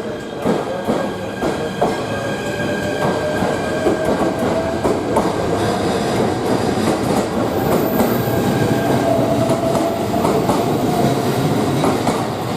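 A train moving through a station, its wheels clicking over rail joints and points, with a whine that rises slowly in pitch through most of the clip.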